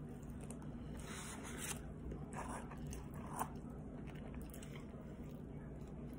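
Close-up mouth sounds of a person eating a chicken sandwich: chewing, with a few wet smacks and the sharpest smack about three and a half seconds in.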